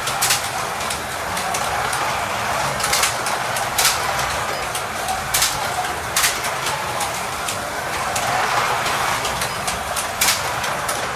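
Carrera Digital slot cars running on the plastic track: a steady whirring from the small electric motors and the guides, broken by a dozen or so sharp, irregular clicks and clacks as the cars run round the layout.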